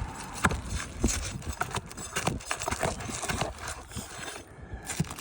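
Irregular taps, knocks and scrapes as an asphalt roof shingle is worked loose by hand and tool, its seal broken and its fasteners pried at.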